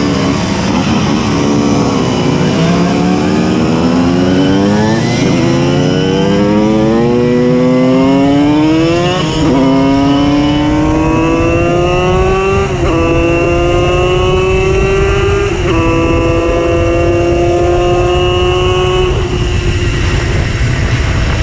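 Simson S51 moped's tuned 90 cc reed-valve two-stroke engine under way, revs climbing for several seconds, then shifting up with a sharp drop in pitch and holding near-steady revs through two more shifts, backing off near the end.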